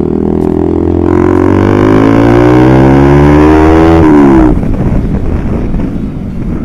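Honda CBR150R single-cylinder engine through a loud aftermarket exhaust: the revs climb steadily for about three seconds, then the throttle snaps shut about four and a half seconds in and the note drops away to a low rumble.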